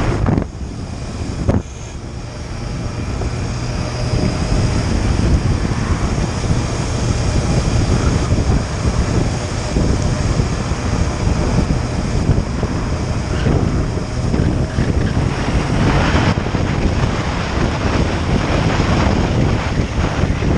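Wind buffeting the microphone on a moving motorcycle, with engine and road noise underneath. The noise drops suddenly about half a second in, then builds back up over the next few seconds and stays steady.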